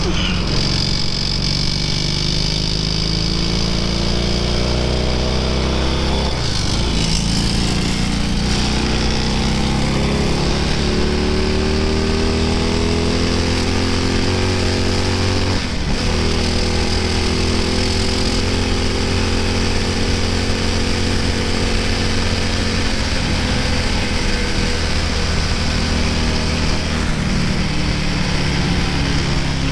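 Classic racing sidecar outfit's twin-cylinder engine running hard on track. The pitch climbs steadily and breaks off briefly about six and sixteen seconds in, over a constant rush of noise.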